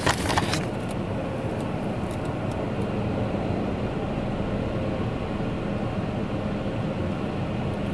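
A car idling, heard from inside its cabin: a steady low hum with an even rush of noise. There are a few handling knocks at the start as the camera phone is set on the dashboard.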